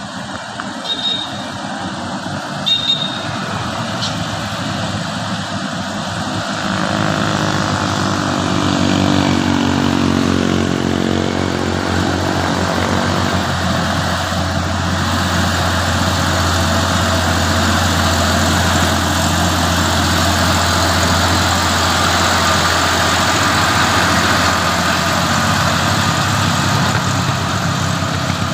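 Heavy diesel truck engine pulling up a steep hill. It grows louder about seven seconds in, rises in pitch for several seconds, then holds a steady low drone. Two short high tones sound near the start.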